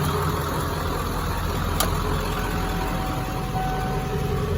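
Ford 7.3L Power Stroke turbo diesel V8 idling steadily, with a single faint click about two seconds in.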